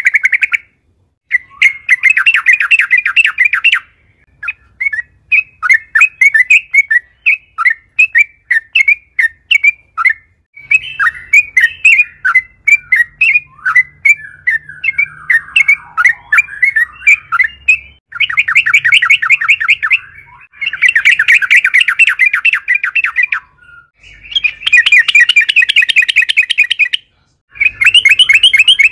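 Yellow-vented bulbul (trucukan) singing its long rolling song: bursts of rapid chattering notes a few seconds long, separated by short pauses, with a looser, more varied run of notes through the middle.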